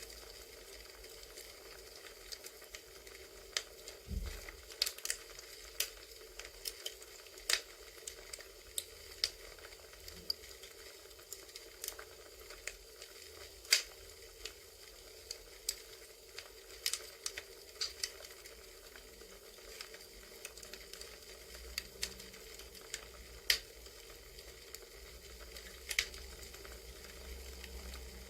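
Campfire crackling: irregular sharp pops and snaps over a steady faint hiss. A single soft low thump comes about four seconds in.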